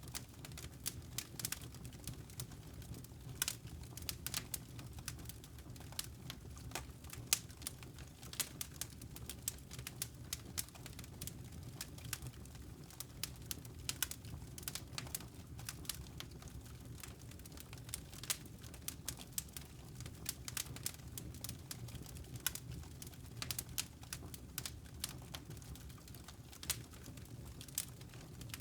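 Wood fire crackling in a fireplace: irregular sharp pops and ticks, several a second, over a steady low rumble.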